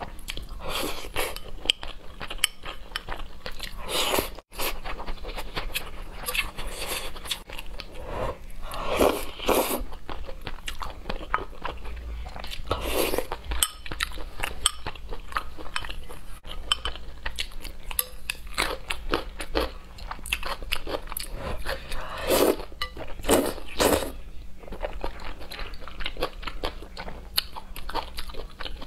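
Close-up eating sounds of a person chewing and biting on braised pork ribs with glass noodles and rice: a dense run of small wet clicks, with several louder bites through it.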